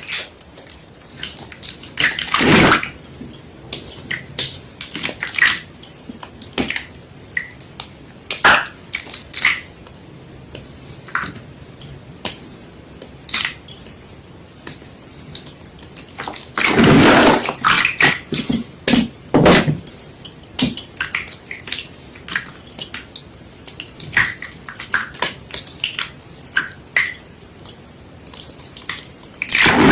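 Wet white gym chalk being crushed: irregular crisp crackles and squishy crunches, with a few louder crunching bursts, one about two and a half seconds in and others around the middle.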